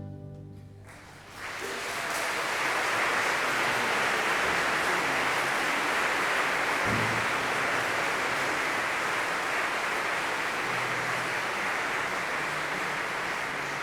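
Audience applauding, starting about a second in as the band's last chord fades, then holding steady.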